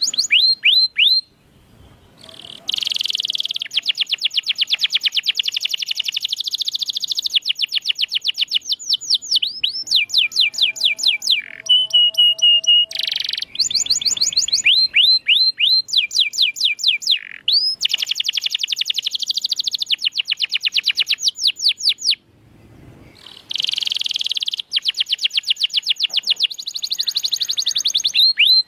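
Domestic canary singing: long phrases of fast repeated notes and trills, pausing briefly twice.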